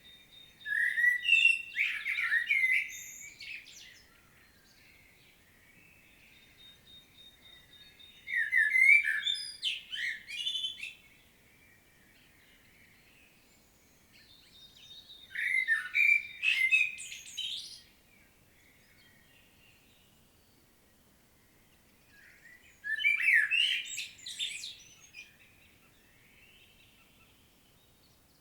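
Common blackbird singing: four warbled phrases of about three seconds each, separated by pauses of several seconds, with high twittering notes in each phrase.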